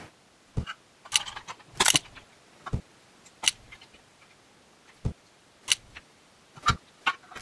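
A series of about a dozen sharp clicks and knocks at irregular intervals, like hard plastic toy pieces being handled and set down.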